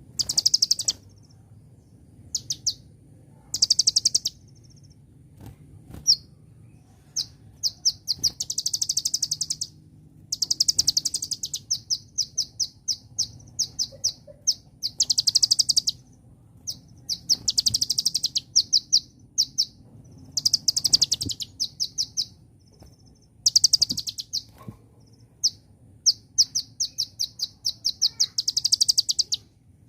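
Brown-throated sunbird (kolibri ninja) singing: bursts of rapid, high-pitched chirps and trills, repeated again and again with short pauses between them.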